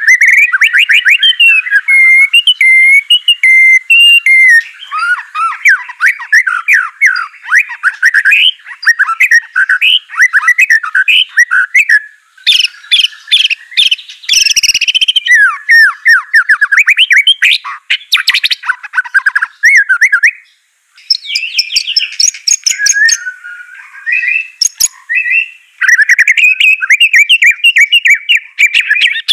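White-rumped shama (murai batu) singing without a break in its run of varied phrases: fast whistled trills, sweeping notes and sharp chattering, pausing briefly a little past two-thirds of the way through.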